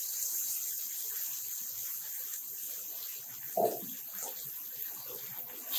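Spinach paste sizzling and bubbling in hot oil with tempering seeds in a nonstick pan, a steady hiss. A brief louder sound stands out about three and a half seconds in.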